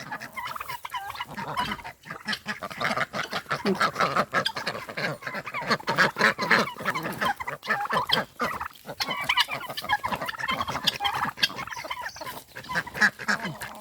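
A flock of farmyard poultry calling while being fed, many short calls overlapping one another.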